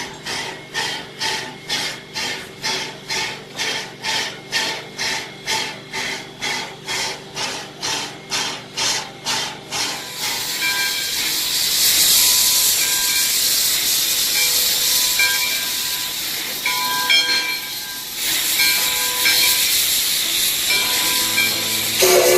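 Nevada Northern Railway Engine 93, a steam locomotive, chuffing evenly about twice a second. After about ten seconds the chuffs give way to a steady loud hiss of escaping steam.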